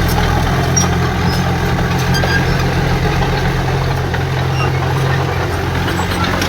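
Heavy diesel earthmoving machinery running steadily at an even engine speed, with no revving.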